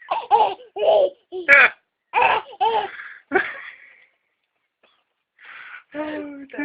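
A baby laughing in short bursts, then a pause. Near the end comes a steady held pitched tone.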